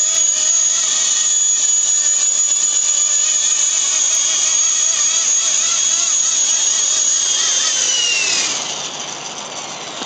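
Blade SR radio-controlled electric helicopter in flight: its motor and rotors give a steady high whine with a fluttering beat. About eight seconds in, the whine falls in pitch and the sound drops as the motor spools down.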